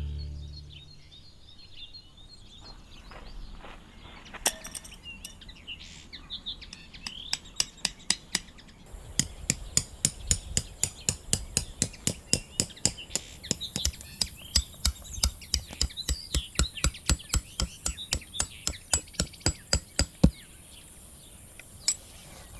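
Birds chirping in the forest, with a run of sharp, evenly repeated knocks, about three a second, from about nine seconds in until about twenty seconds in.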